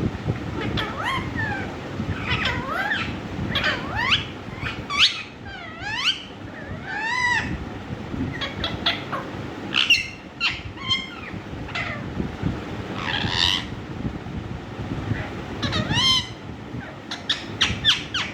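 Indian ringneck parakeet vocalising: a long run of short, sharp calls and whistles that swoop up and down in pitch, coming in clusters with brief gaps.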